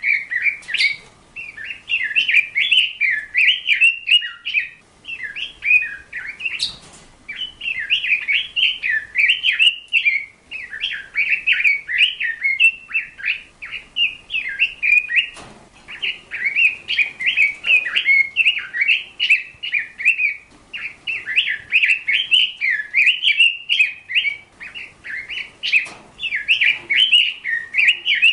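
A bird singing a rapid, warbling chatter in phrases of a few seconds, with brief pauses between them.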